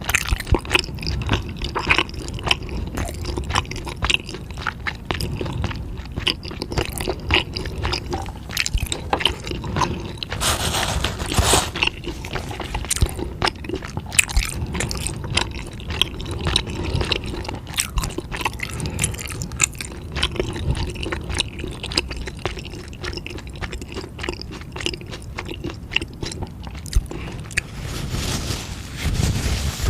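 Close-miked chewing of spicy food: irregular crunches, clicks and wet squishy mouth sounds throughout, with a louder, noisier stretch about eleven seconds in.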